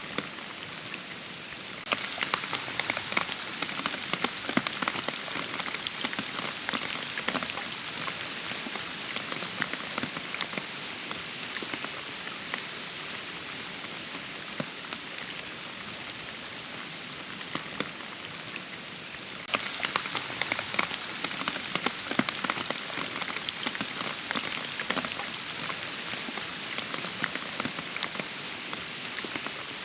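Steady rain with a dense patter of drops. The patter turns abruptly heavier about two seconds in, eases off, then turns heavier again about twenty seconds in.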